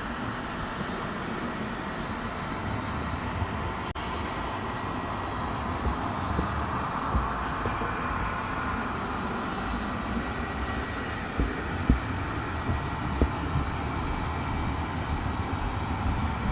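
Train running on the track: a steady rumble with a few sharp knocks in the second half.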